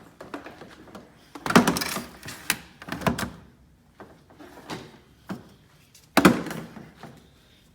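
Two loud thunks, about a second and a half in and again near the end, with lighter clicks and rattles between them, as hard objects are handled and set down.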